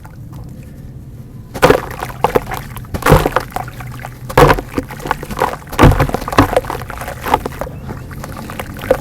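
Chunks of dry dirt dropping into water: four loud splashes about one and a half seconds apart, with crackling and fizzing between them as the dirt crumbles.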